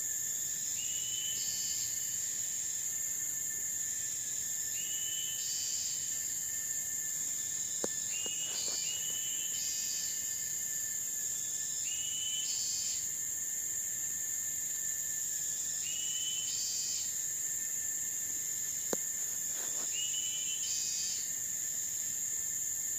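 Tropical forest ambience: a steady high insect drone with a lower steady whine under it. A short rising call from an animal repeats about every three to four seconds, and there are two sharp clicks, about eight seconds in and near nineteen seconds.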